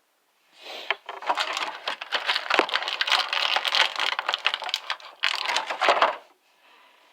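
Thin plastic packaging crinkling and rustling with many quick small clicks as figure accessories are handled, stopping a little after six seconds in.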